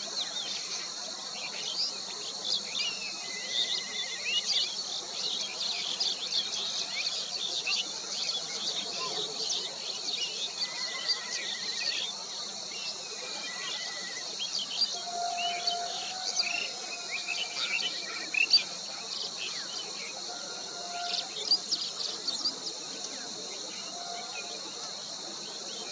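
Outdoor ambience of many birds chirping and calling over a steady, high drone of insects such as crickets. The calls come as frequent short chirps, with a few longer whistled notes about 3, 11, 15 and 21 seconds in.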